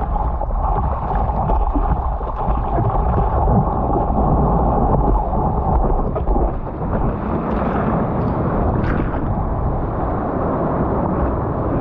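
Ocean water and wind rushing over a GoPro's microphone while surfing, a loud, steady, rumbling wash of noise.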